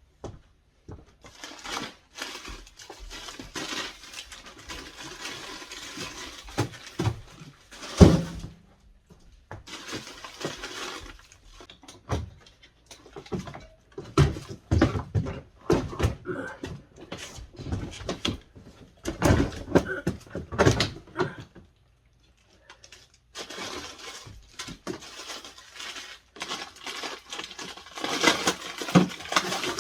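Rustling and clattering as frozen food and freezer drawers are lifted out of a bottom freezer, with a single loud knock about eight seconds in and knocks and bumps throughout.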